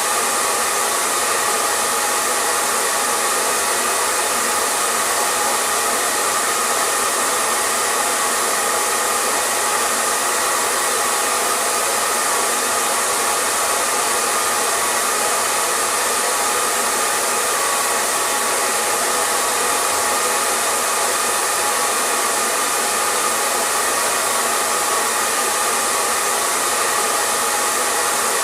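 Hair dryer running continuously at a constant setting: a steady, even rush of air with a faint motor hum mixed in, used as white noise for soothing a baby to sleep.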